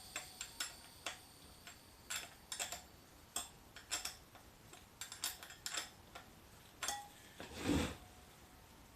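Irregular metallic clicks of a box-end wrench working the nut of a motorcycle rim lock to loosen it, with a louder scrape of metal handling about three quarters of the way through.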